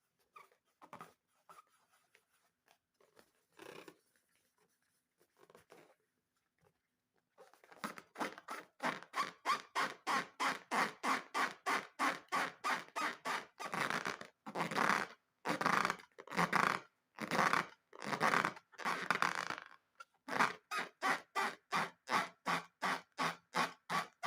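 Rubber balloons squeaking in quick, even strokes, about four a second, starting about a third of the way in, with a run of longer, drawn-out squeaks in the middle. Faint taps and scrapes come before the squeaking.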